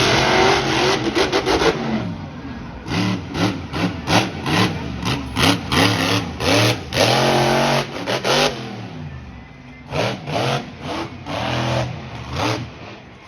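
Monster truck engine revving in rapid repeated throttle blips, the pitch sweeping up and dropping with each burst. One longer rev opens it, then a string of short blips, a brief lull, and a few more blips near the end.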